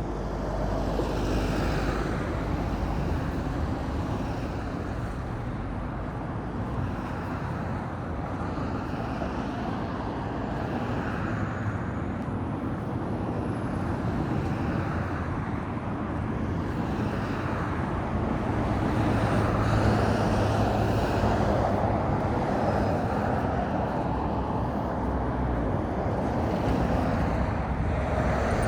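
Road traffic on a street: cars passing, their tyre and engine noise swelling and fading several times over a steady hum.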